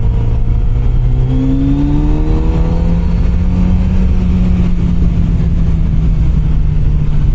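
Kawasaki Z900RS Cafe's inline-four engine running at cruising speed, its pitch rising a little over the first few seconds as it picks up speed, then holding steady.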